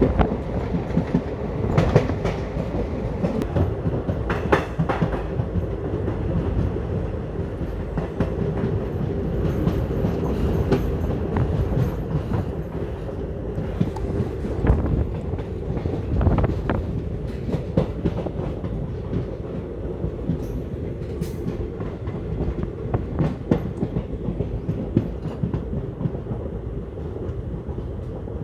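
Passenger train running along the track, heard from on board: a steady rumble of wheels on rail with irregular clacks as they cross rail joints.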